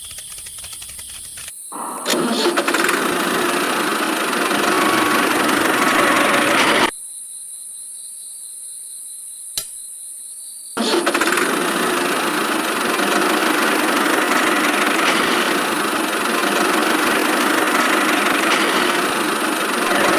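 A motor running steadily with a noisy whirr. It drops out suddenly for about four seconds in the middle, then comes back.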